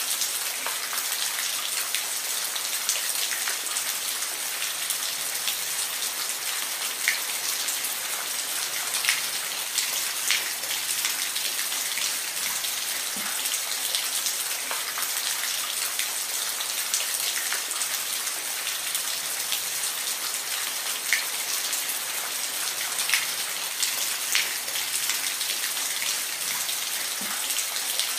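Steady rain falling, a constant hiss with individual drops ticking close by at irregular moments.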